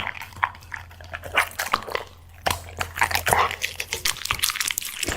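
Black Labrador chewing and crunching dry snacks, irregular crisp crunches and smacks with a short lull about two seconds in.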